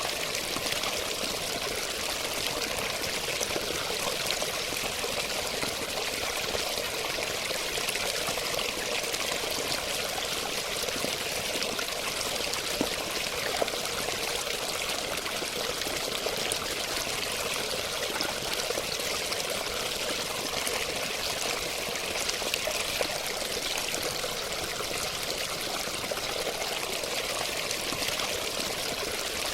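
Steady running water: an even, hissing flow that does not change, with a few slightly louder splashes or drips around the middle.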